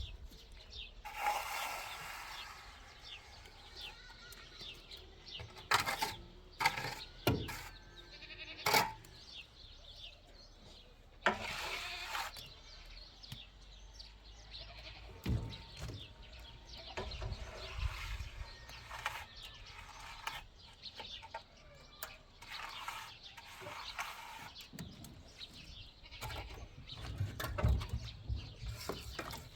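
Livestock bleating now and then, goats or sheep, with a few scattered sharp knocks in between.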